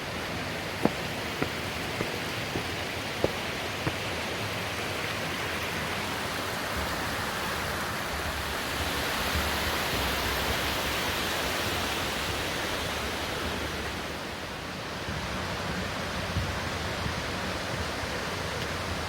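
Waterfall rushing steadily, a distant roar, swelling a little about halfway through and easing briefly later on. A run of six sharp ticks sounds over the first four seconds.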